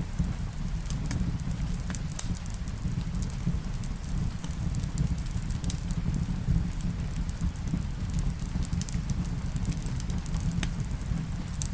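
Wood fire crackling in a fireplace: scattered sharp pops and snaps over a steady low rumble, with rain beneath.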